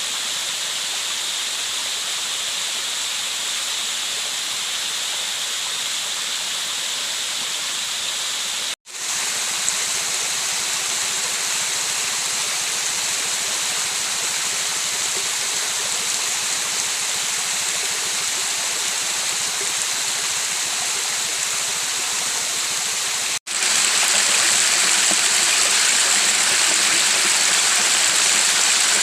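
Steady rush of flowing river water, cut off twice for a moment about 9 and 23 seconds in, and louder after the second break.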